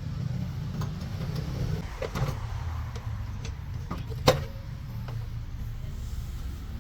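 Truck engine running with a steady low rumble, and sharp metallic knocks about two seconds in and, louder, just over four seconds in.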